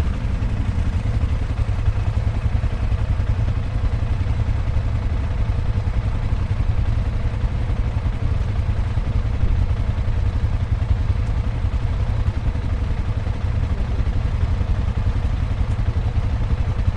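Motorcycle engine running steadily at an even speed, a constant low rumble with no change in pitch.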